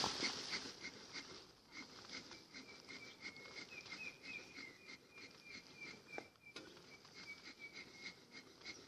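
A small bird chirping repeatedly and faintly, short high chirps about three to four a second, with one sharp knock about six seconds in.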